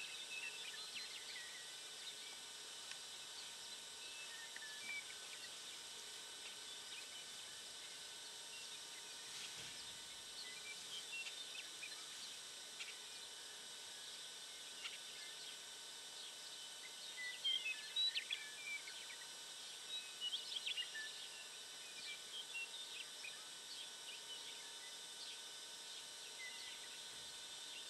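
Faint outdoor ambience with birds chirping here and there, a quick burst of louder chirps a little past the middle, over a steady background hiss.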